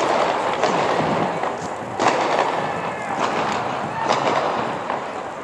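Burning police car crackling over a steady rushing noise, with a handful of sharp pops, the loudest about two seconds in.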